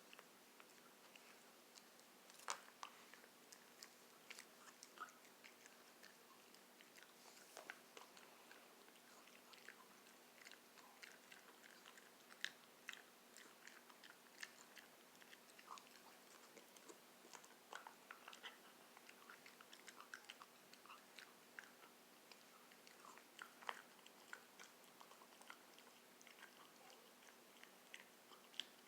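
Faint, irregular small clicks and crunches, several a second at times, with a few louder snaps.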